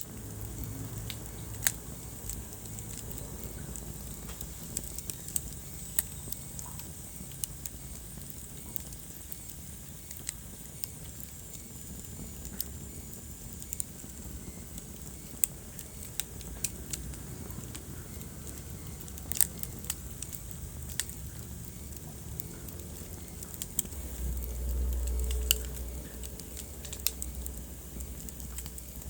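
Wood fire burning in a fireplace: irregular sharp crackles and pops over a low, steady rumble of flames, the rumble swelling briefly a few seconds before the end.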